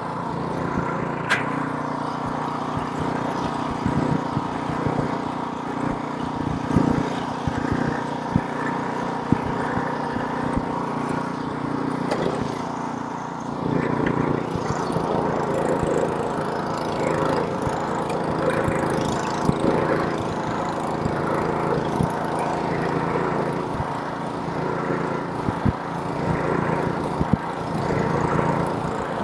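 Gas snowblower's small engine running steadily, with sharp ticks and knocks scattered through it.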